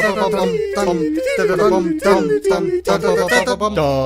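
A single voice singing wordlessly in place of the score: short notes that swoop up and down in quick succession, then a longer held note near the end.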